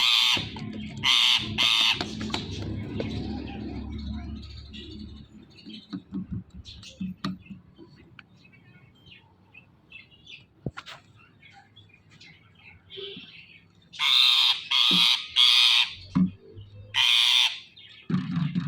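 Indian ringneck parakeet screeching: two loud, harsh calls near the start, faint scattered chirps, then a run of four loud screeches near the end. A low rumble is also heard in the first few seconds.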